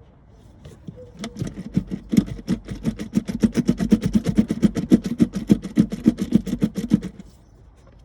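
VW engine turning over on the starter motor: a fast, even pulsing of about seven or eight beats a second that stops abruptly after about six seconds.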